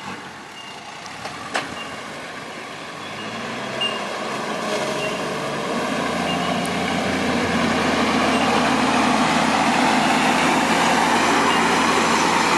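Four-wheel-drive vehicle's engine running under load, growing steadily louder over the first several seconds and then holding steady, with a couple of light knocks in the first few seconds.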